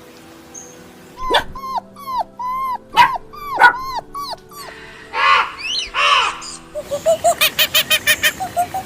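A dog whimpering and yipping: a string of short, high whines, then two louder yelps, and a quick run of short yips near the end.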